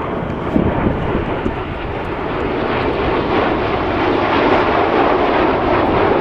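Red Arrows' BAE Hawk T1 jets passing in formation. Their Adour turbofan engines make a steady rushing jet noise that grows louder over the last few seconds.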